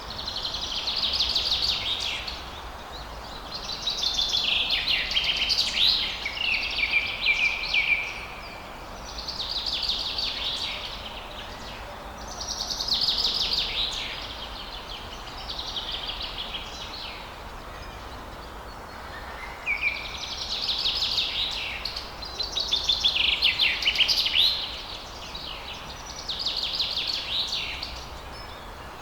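A songbird singing about eight rapid, trilling song phrases, each one to four seconds long with short pauses between, over a steady background hiss.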